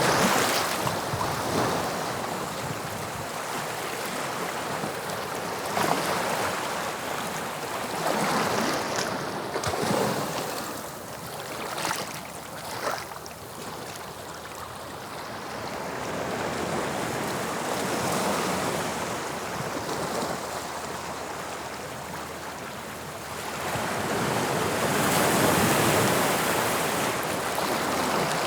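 Waves of the English Channel breaking and washing on the shore, in repeated surges every few seconds with a longer, louder wash near the end.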